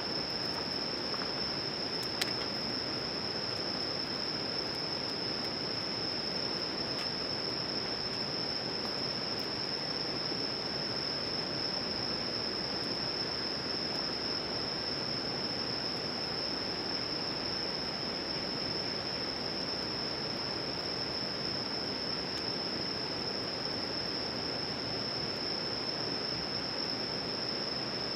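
Crickets or other night insects singing in one steady, unbroken high-pitched chorus over a constant rushing background noise, with a single sharp click about two seconds in.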